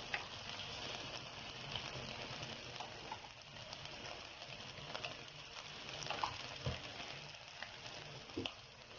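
Glutinous rice cooked with coconut milk and corn, sizzling in a pan as it is cooked down to dry a little, with a few light clicks scattered through the steady sizzle.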